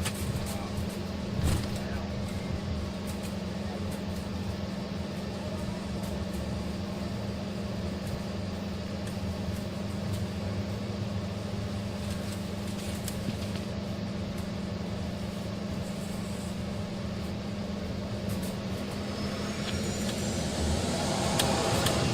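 Embraer ERJ-145's rear-mounted Rolls-Royce AE 3007 turbofans heard from the cabin: a steady drone with a constant low hum at low power. Near the end, high whines rise and the sound grows louder as the engines spool up for take-off.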